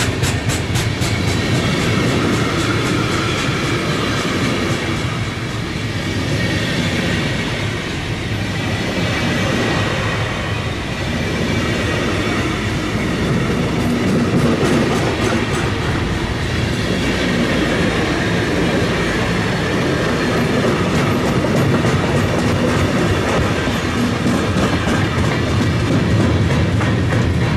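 Container freight train passing close by: the steady rumble of loaded container flat wagons rolling on the rails, with rapid clickety-clack of wheels over rail joints, plainest near the start and again near the end.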